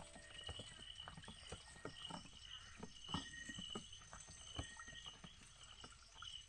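Faint chirping calls, a short chirp repeating a couple of times a second, over a steady high thin drone, with scattered small knocks and taps.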